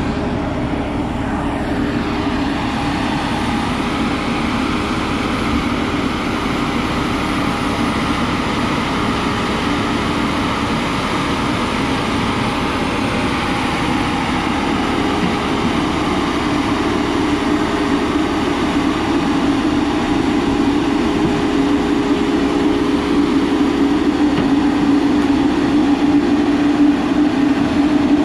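Heavy diesel engine running steadily, gradually getting louder toward the end.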